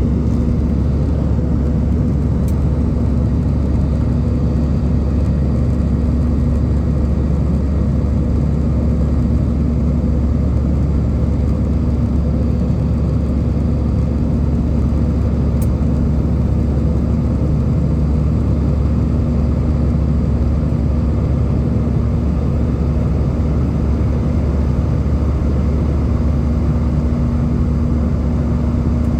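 Airbus A320 cabin noise: a steady deep rumble of jet engines and airflow with a constant hum, heard from inside the passenger cabin.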